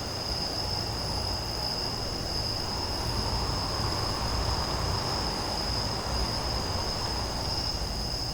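Crickets trilling in one continuous high-pitched tone over a steady low rumbling background noise.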